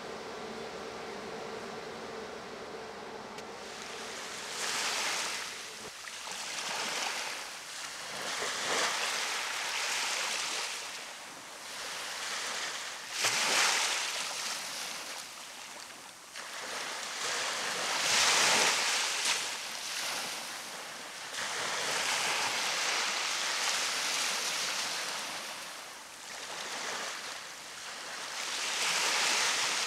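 Small ocean waves breaking on a beach, a rush of surf swelling and fading every few seconds. A steady hum is heard for the first few seconds before the surf begins.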